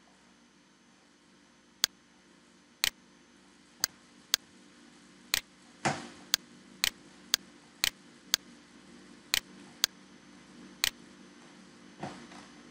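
A series of short, sharp single clicks, about fourteen spread over ten seconds at irregular gaps of a half-second or more, over a faint steady hum.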